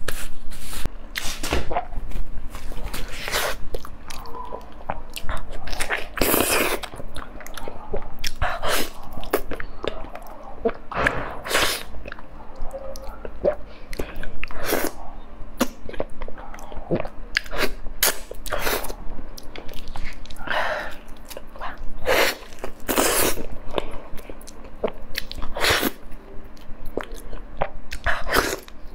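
A person chewing and biting soft durian flesh close to a clip-on microphone, with irregular loud mouth clicks and smacks.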